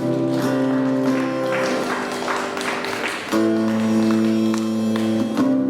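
Live rock band playing the opening of a song, two long held chords with a busier, noisier stretch between them, over audience applause.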